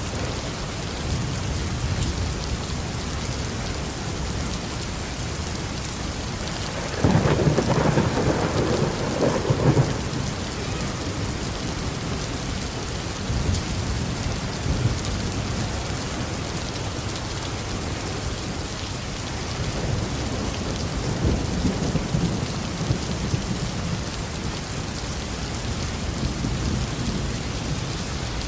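Heavy rain falling steadily on a roof, with a sudden loud thunderclap about seven seconds in that rumbles for around three seconds, and a fainter roll of thunder later on.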